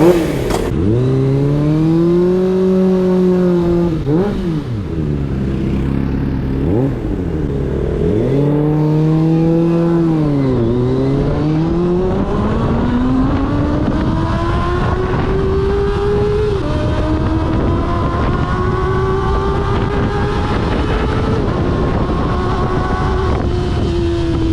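A motorcycle engine under way, revving up and down several times with sharp drops in pitch at the gear changes, then pulling in a long, slow climb. Wind rushes over the bike throughout.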